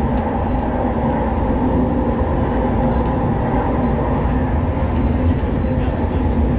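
West Midlands Metro tram, a CAF Urbos 3, running between stops, heard from inside the car: a steady low rumble of wheels on rail and running gear with a faint steady hum over it.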